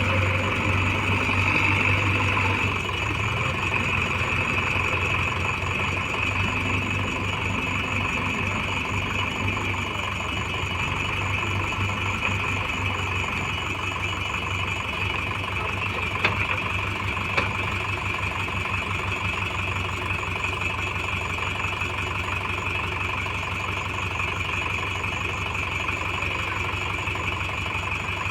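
Heavy diesel engine running steadily with a fast low pulse, under a constant high-pitched ring. Two sharp clicks about a second apart a little past halfway.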